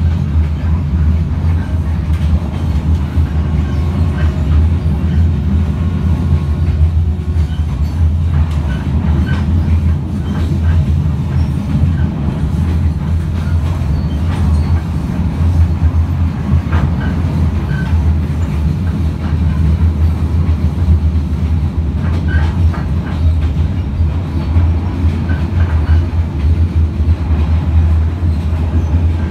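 Passenger train running along the track, heard from aboard: a steady, loud low rumble of wheels and carriage with scattered clicks.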